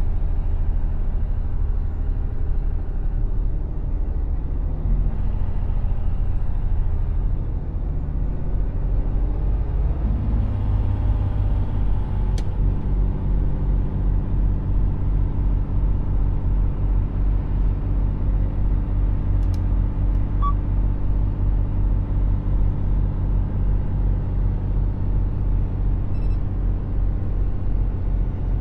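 Mercedes Actros truck's diesel engine running steadily with low road rumble; its engine note changes about ten seconds in. Two faint clicks are heard partway through.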